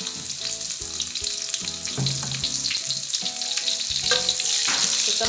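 Chopped shallots and garlic sizzling as they fry in hot oil in a wok, the sizzle growing a little louder toward the end. A metal spatula starts scraping and stirring them near the end.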